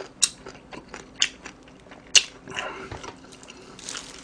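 Close-miked chewing of crunchy fried food, with three sharp crunches about a second apart and smaller wet clicks between. Near the end a crisp crackling as a fried cheese ball is pulled apart by hand.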